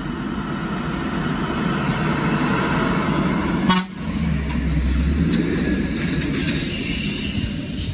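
Heavy truck engine running loudly and steadily, with a sharp click nearly four seconds in followed by a deeper rumble for about a second.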